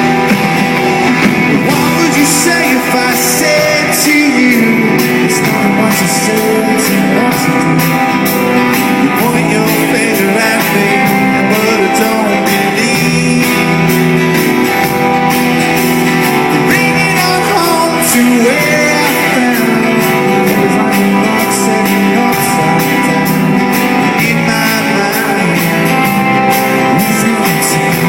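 Rock band playing, with guitars to the fore, at a steady, loud level.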